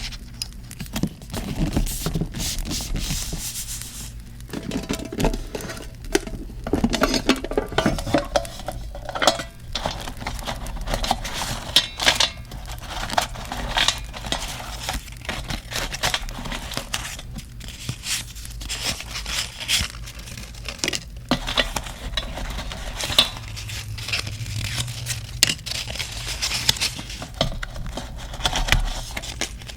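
Paper and stationery being handled for journal decorating: rustling, crinkling and tearing of paper with many sharp taps and clicks, over a crackling campfire background.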